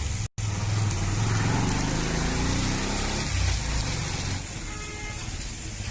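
Motor vehicle engine running close by, its pitch rising and falling in the first few seconds, over a steady low street hum.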